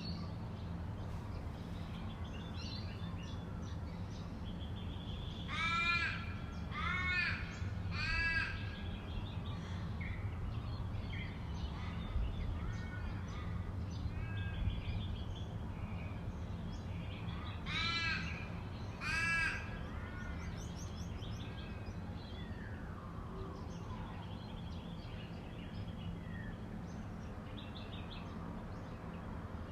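A crow cawing: three loud calls about a second apart, then two more about ten seconds later, with fainter birds chirping between them over a steady low hum.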